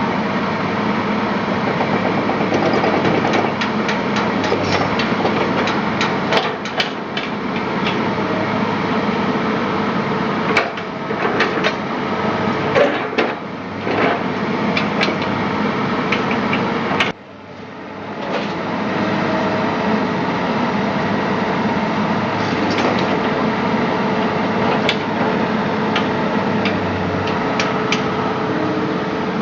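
An engine running steadily, with scattered sharp metallic knocks and clicks of work on the machine over it. About 17 seconds in the sound drops off suddenly, then builds back up over a couple of seconds.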